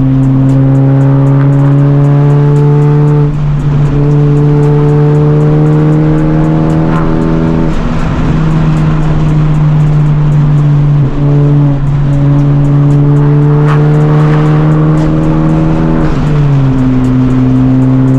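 Honda Civic Type R's turbocharged four-cylinder, with catless downpipe and resonator delete, pulling under load: its note climbs slowly, then drops sharply as it shifts gear, about every four seconds. Near the end it settles to a lower, steady note.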